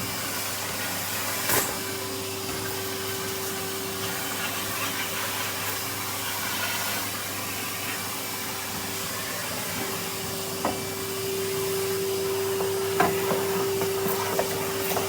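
Vacuum cleaner running with a brush attachment: a steady motor whine over a hiss of air. The whine gets louder about ten seconds in, with a few short clicks and knocks of grit or the nozzle striking things.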